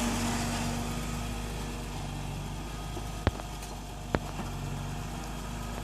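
2004 BMW E46 M3's straight-six engine idling low and steady through the stock exhaust, easing off over the first couple of seconds. Two sharp clicks come about a second apart past the middle.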